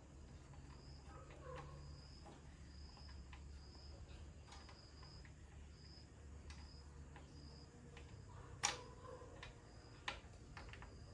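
Near silence: faint room tone with a low hum and a faint high chirping that repeats every second or so. A few sharp clicks come through, the loudest about two-thirds of the way in and another a second later.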